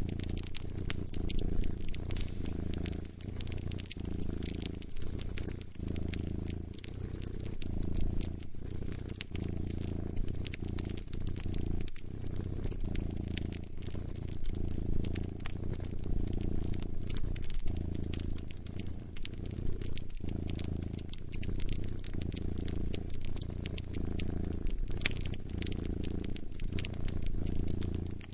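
A cat purring close up, a low steady rumble that swells and eases about once a second with its breathing, mixed with a wood fire crackling in frequent sharp pops.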